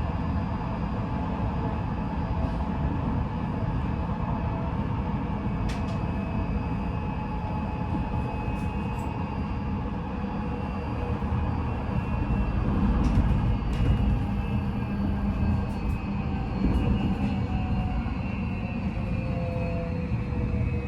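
An Odakyu 5000 series train running, heard from inside a motor car: steady wheel-on-rail rumble with the whine of its Mitsubishi full-SiC VVVF inverter and traction motors, the tones slowly falling in pitch as the train loses speed. A few short sharp clicks cut through the rumble.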